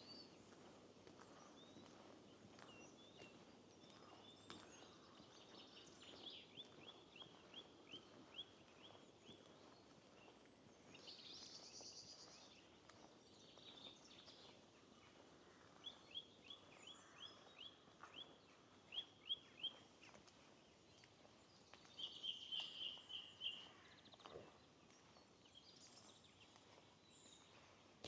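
Faint songbirds singing: runs of short, quickly repeated high notes twice, and a brief trill past the middle, over a steady low hiss of a shallow stream running.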